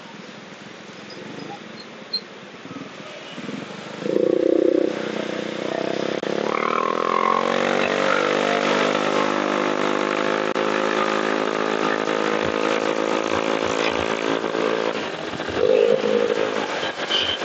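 Motorcycle engine speeding up, its pitch rising for a few seconds and then holding steady while riding on the road. A short loud tone sounds about four seconds in and again near the end.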